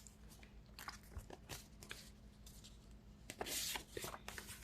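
Faint rustling and light taps of tarot cards being handled, with a brief louder swish about three and a half seconds in, over a low steady hum.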